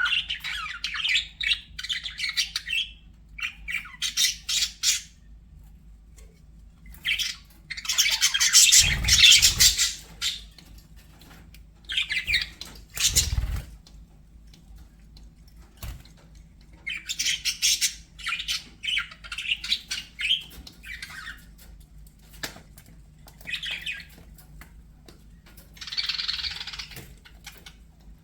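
Budgerigars chattering and squawking in bursts of one to three seconds with short pauses between, loudest about a third of the way in. Two short low thumps sound under the calls, at about nine and thirteen seconds.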